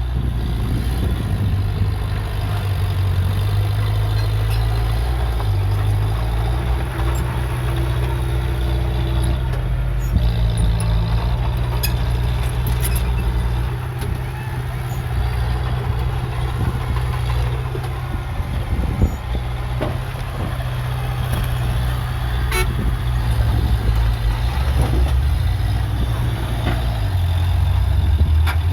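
Heavy diesel engine of earthmoving machinery working, its pitch stepping up and down as the revs change, with a few short sharp knocks.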